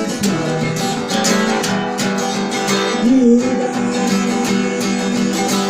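Instrumental break in a song: an acoustic guitar strumming chords in a steady rhythm, with a sustained melody line that bends in pitch about three seconds in.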